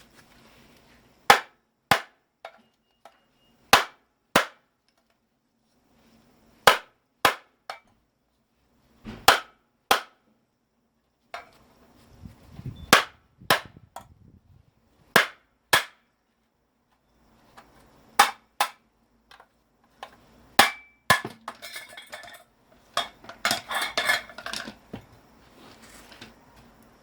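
Hammer blows on a scrap electric motor's metal parts: sharp strikes, mostly in pairs about half a second apart every two to three seconds, then a rattling clatter of loose metal pieces near the end.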